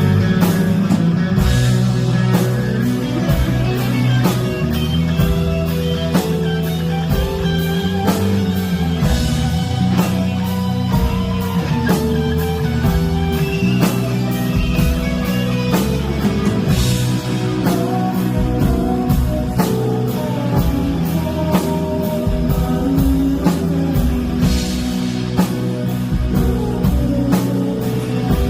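A rock band playing: guitar over bass and drum kit, with a steady beat.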